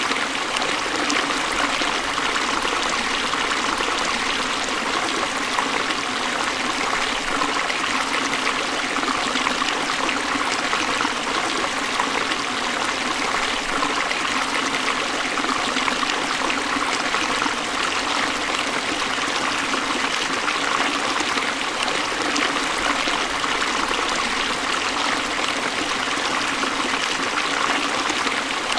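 Forest stream of water flowing and splashing over rocks in a steady rush, with no change in level.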